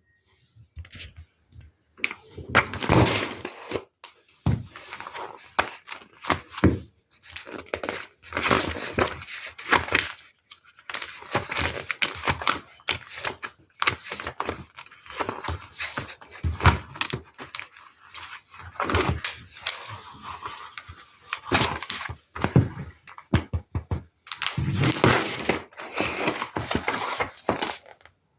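LEGO Technic plastic pieces being handled: irregular rattling, clicking and rustling in uneven bursts, with short pauses between them.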